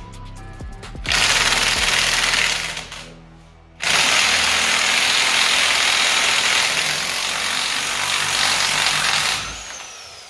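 Power tool run in two long, loud bursts, the second winding down near the end, over background music.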